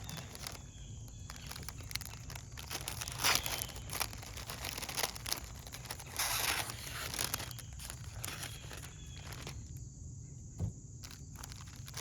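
Crinkling and rustling of fresh-cut flowers being handled, a string of irregular short rustles with a louder crinkle about three seconds in and a longer one around six seconds.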